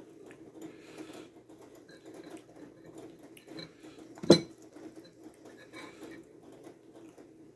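Close-up chewing and crunching of a tortilla chip, with small crackles throughout and one sharp knock about four seconds in.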